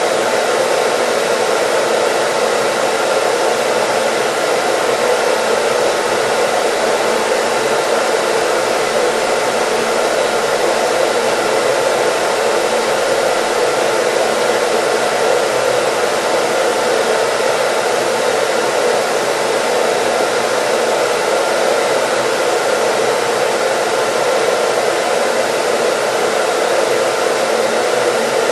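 Hair dryer running steadily: a constant, even blowing rush with a faint steady motor whine, used as white noise.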